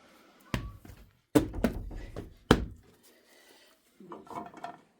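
Three heavy thuds with some clattering between the second and third, then a few lighter knocks near the end.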